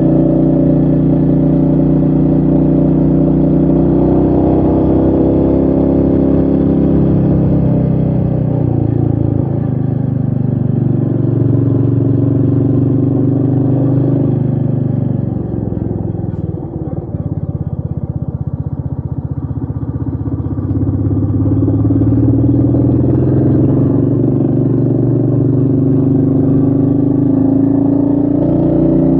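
Royal Enfield Meteor 350's single-cylinder engine running under way, heard from the rider's position with wind noise. Its pitch falls off about halfway through as the throttle eases, with a brief dip in level, then climbs again toward the end as the bike accelerates.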